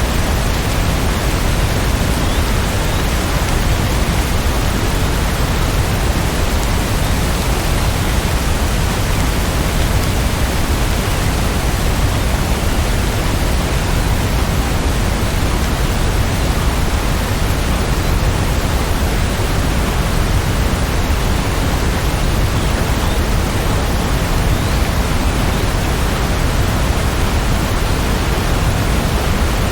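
Steady heavy rain falling, a constant, even hiss with no separate drips, gusts or thunder.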